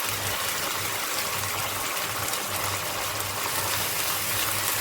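Onion-and-tomato masala base sizzling in a wok with ghee and a little added water: a steady hiss as it cooks down until the oil separates.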